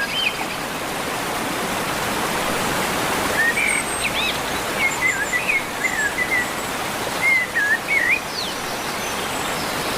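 Steady rush of running water with a songbird singing short whistled, up-and-down phrases, in one run from about three seconds in and another near the end.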